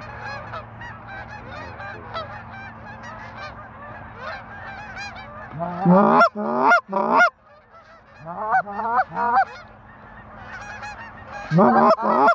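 Geese honking: a steady chorus of distant honks, broken by loud, close runs of honking about six seconds in, again around eight to nine seconds, and near the end.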